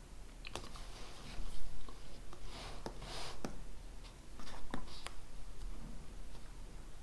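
Pen writing on paper: short scratching strokes mixed with light taps and clicks, busiest in the middle.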